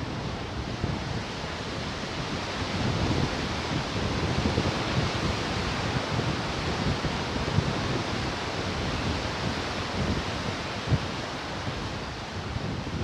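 Ocean surf washing onto the shore as a steady rush that swells over the middle seconds, with wind buffeting the microphone in low rumbles.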